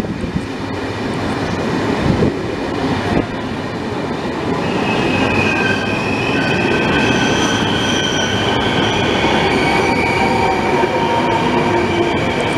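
Regional train of double-deck Vivalto coaches, pushed by an E.464 electric locomotive, rolling past close by with a steady rumble. From about four seconds in, several high squealing tones join it and get a little louder.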